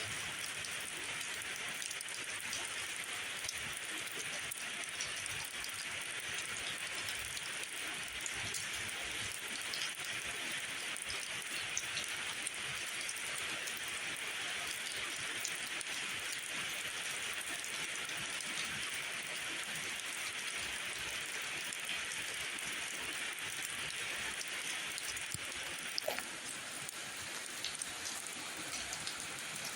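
Steady rainfall, an even hiss of rain with scattered sharp drop ticks, one a little louder near the end.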